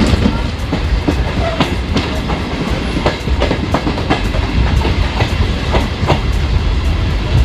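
MEMU electric multiple-unit passenger train running along a platform, its wheels clacking and knocking irregularly over a steady rumble.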